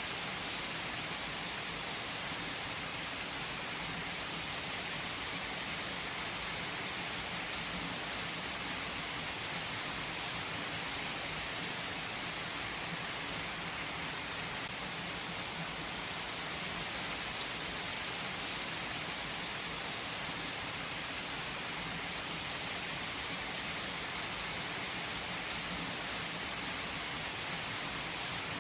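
Heavy rain falling on trees and foliage, a steady, even patter of countless drops with no let-up.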